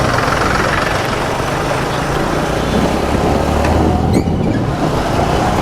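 TVS Star City Plus 110 cc single-cylinder motorcycle engine running steadily under way, with a steady rush of wind and road noise.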